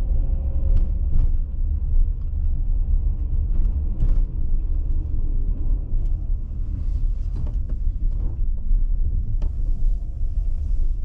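Minivan driving, heard from inside the cabin: a steady low rumble of engine and road noise, with a few faint clicks.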